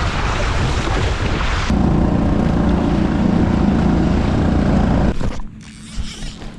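Wind buffeting the microphone over rushing water. About two seconds in it cuts to a steady motor drone, which drops away suddenly near the end, leaving a faint low hum.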